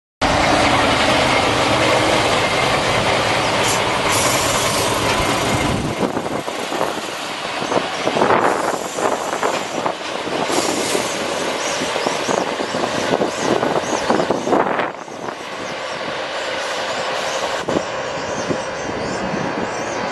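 Heavy vehicle travelling along the O-Bahn guided busway's concrete track: a loud, continuous rumble and hiss of running and tyre noise that cuts in suddenly, changing in character several times as it goes.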